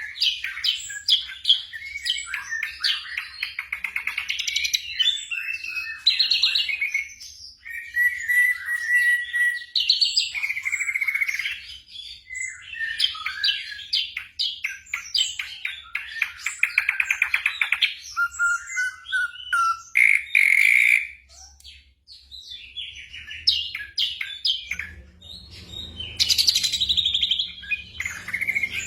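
Black drongo song: a varied run of whistled notes, fast trills and chattering phrases with short pauses between them. A low hum joins near the end.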